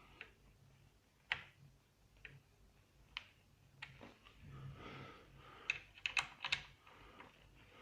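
Faint, scattered clicks and taps of small metal parts and a hand tool being handled while fitting an outboard motor's mount hardware, with a quick cluster of sharper clicks about six seconds in.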